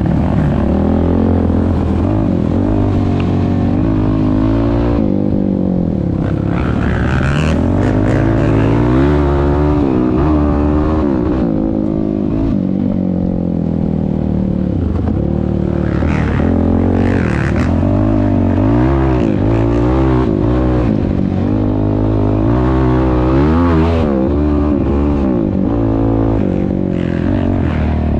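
Yamaha YFZ450R quad's 449 cc single-cylinder four-stroke engine breathing through a Rossier R5 aftermarket exhaust, revving up and dropping back over and over while being ridden, its pitch climbing and falling every second or two.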